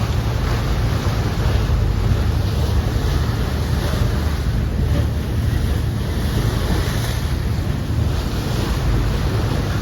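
Boat under way on the sea: steady wind buffeting the microphone over rushing, splashing water, with a low rumble underneath.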